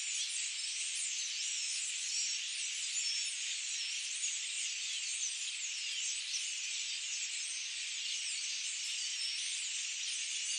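Many birds chirping and singing at once, their overlapping calls merging into a steady, high-pitched chorus.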